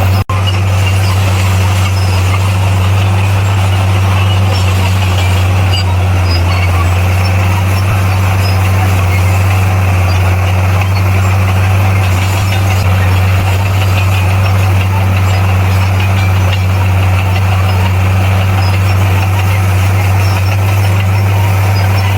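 Komatsu D58P bulldozer's diesel engine running under steady load with a constant low drone, over a steady higher hiss. There is a brief dropout just after the start.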